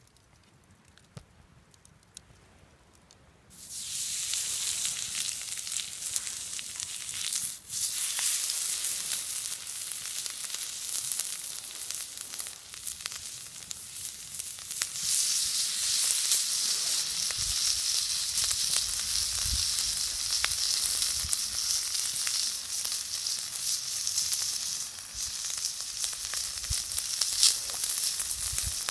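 Meat frying on a hot iron plate over a wood fire: a sizzle starts suddenly a few seconds in, dips for a moment and grows louder about halfway through.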